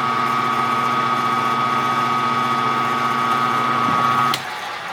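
A machine-shop machine tool's electric drive runs steadily with a hum and a high whine. It shuts off abruptly about four seconds in, with a click.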